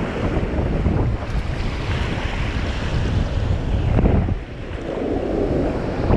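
Strong gusty wind buffeting the microphone over ocean surf breaking on the beach, the wind of an approaching tropical storm. The gusts ease a little about two-thirds of the way through, then pick up again near the end.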